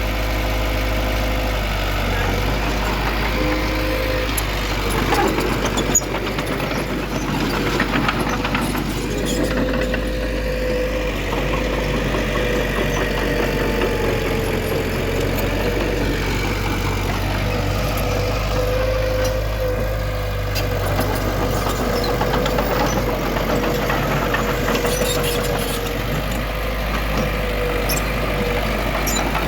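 Heavy earthmoving machine's diesel engine running steadily, with a low rumble and a constant, slightly wavering whine. There is a single sharp knock about six seconds in.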